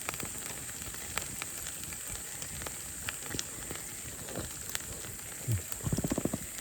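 Meat sizzling on a grill over a wood campfire, a steady hiss with scattered crackles and pops from the burning wood. A short low vocal sound from a person comes near the end.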